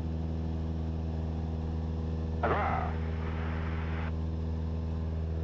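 Cessna 172SP's four-cylinder Lycoming engine and propeller droning steadily in a climb, heard inside the cockpit. A brief exclamation about halfway through.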